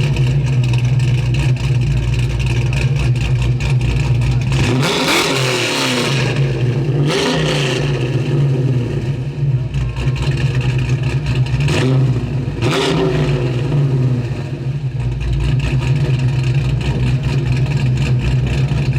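1984 Buick Grand National's turbocharged 3.8-litre V6 idling with a steady low exhaust rumble, blipped three times, the revs rising and falling back each time.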